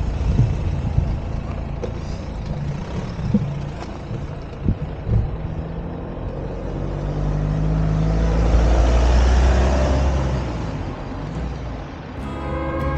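A motor vehicle passing on the road: a low engine and road rumble swells to its loudest about nine seconds in and then fades away.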